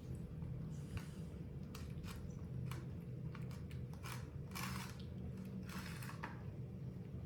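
Crisp crunching of fresh mango: a series of short sharp clicks and two longer crunches about four and a half and six seconds in, over a steady low hum.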